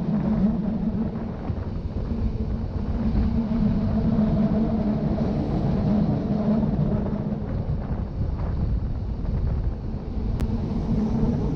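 Rhaetian Railway ABe 8/12 'Allegra' electric train running along the track: a steady rumble with a low hum.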